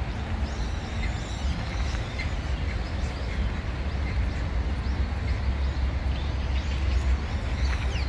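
Small birds chirping now and then, short scattered calls over a steady low rumble.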